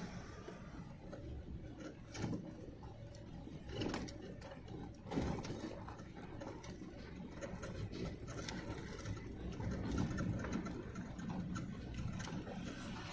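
Motorcycle engine running low and steady with a light mechanical chatter, with a few louder thumps about 2, 4 and 5 seconds in.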